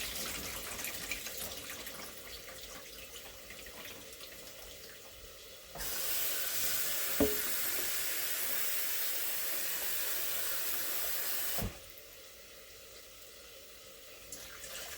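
Kitchen tap running water into a sink: a fainter trickle at first, then the tap turned up to a steady full flow about six seconds in, shut off with a knock about six seconds later.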